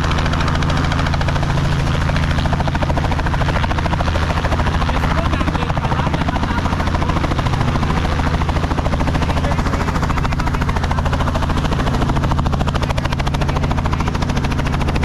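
Tour helicopter running close by with its rotor turning: a steady, loud, fast blade chop over a low engine drone that holds even throughout.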